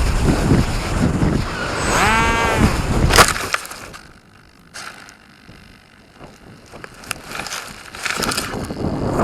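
Strong wind buffeting the microphone with a heavy rumble. About two seconds in there is a brief whine that rises and falls in pitch, and just after three seconds a sharp knock. The wind then drops to a much quieter hiss and picks up again near the end.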